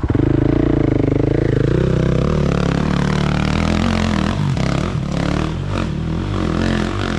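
Dirt bike engine running close by, its note rising and falling under throttle for the first couple of seconds, then dropping to a lower, rougher running note with a few knocks and clatter partway through.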